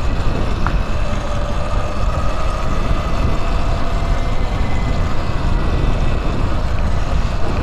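Wind rumbling steadily on the microphone of a moving electric bike, with a faint steady whine from its electric motor in the middle.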